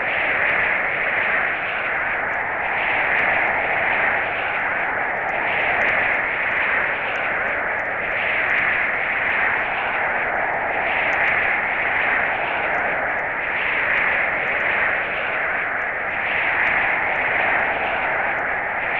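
Snowstorm wind blowing: a steady rushing hiss that swells and eases every two seconds or so, with faint light ticks over it.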